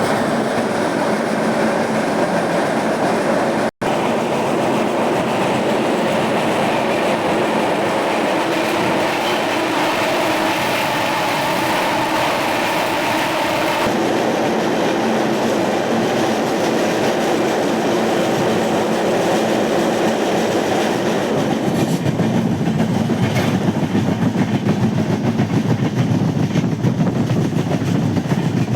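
Passenger train running along the track: a steady, loud rumble and rattle of wheels on rails, with a split-second gap in the sound about four seconds in.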